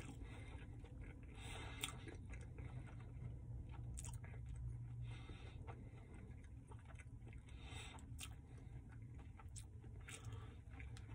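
A person chewing a mouthful of a soft meatball marinara sub with faint, irregular wet mouth clicks and smacks, over a low steady hum.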